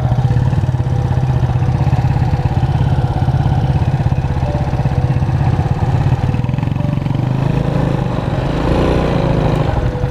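Motorcycle engine idling steadily while stopped, its firing evenly spaced, with a slight change in tone near the end.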